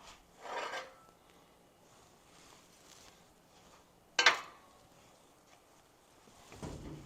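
Metal workpieces being handled on a workbench: a short scrape just under a second in, a single sharp metallic clank about four seconds in, and a duller knock near the end.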